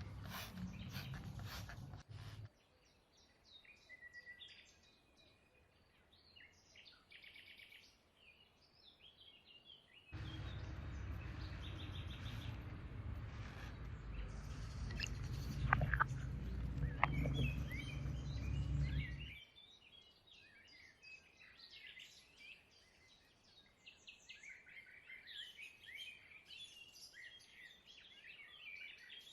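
Birds chirping, with many short calls throughout. A loud, even low rumbling noise starts suddenly about ten seconds in, lasts about nine seconds and stops abruptly.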